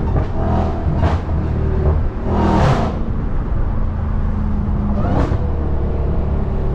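Supercharged 6.2-litre HEMI V8 of a 2021 Dodge Charger SRT Hellcat running steadily under way, with three short whooshing swells about a second in, midway, and about five seconds in.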